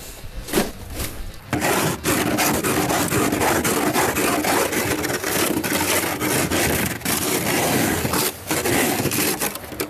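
Loud, continuous rough scraping, starting about a second and a half in, with a few brief breaks.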